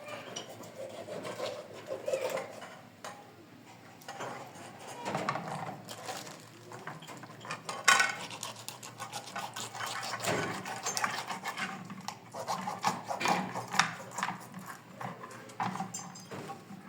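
Dishes, pots and utensils clinking and clattering as they are handled, in irregular knocks with a sharp clank about eight seconds in.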